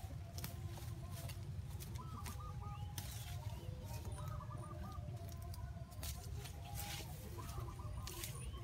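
Bird calls: three short runs of quick clucking notes, with scattered sharp clicks and a steady low rumble underneath.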